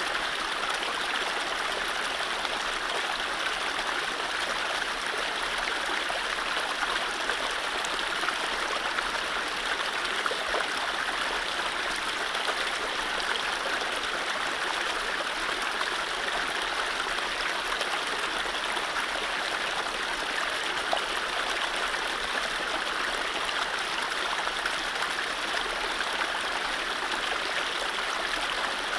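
Mountain stream running over low rapids: a steady, even rush and babble of water with no birdsong.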